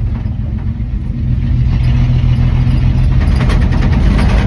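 225 slant-six engine of a 1967 Dodge D100 pickup running while driving, getting louder about a second in as it pulls harder.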